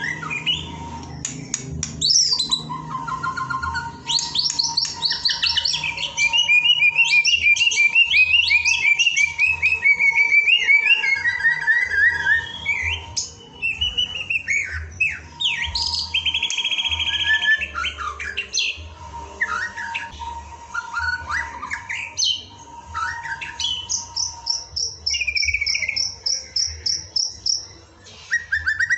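White-rumped shama (murai batu) singing a long, varied song of fast repeated-note trills, gliding whistles and chattering phrases. A thin steady tone comes and goes underneath, over a low hum.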